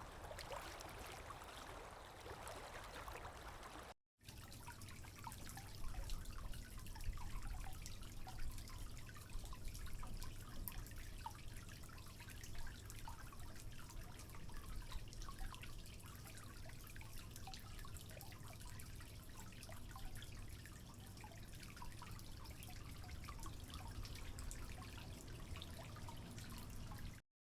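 Running water for about four seconds, cutting off, then irregular water drips and trickling over a low rumble.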